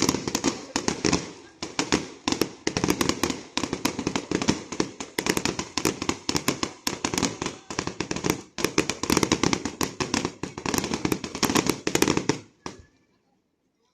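Fireworks going off in a dense, rapid string of sharp cracks and pops, many a second, that stops suddenly about twelve and a half seconds in.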